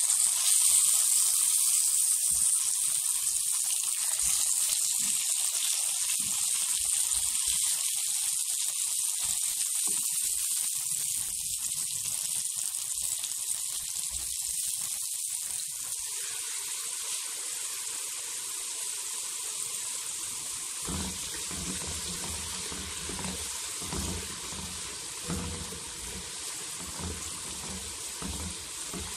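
Burger patties sizzling in hot oil in a frying pan: a steady hiss that slowly grows quieter, with low bumps from about two-thirds of the way in.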